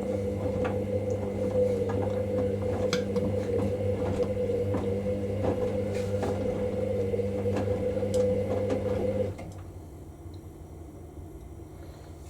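Hoover washing machine drum turning during the wash: a steady motor hum with light knocks and clicks from the load tumbling, cutting off suddenly about nine seconds in as the drum pauses.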